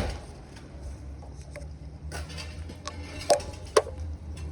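A few sharp knocks and clicks of work being done, the clearest between about two and four seconds in, over a steady low hum.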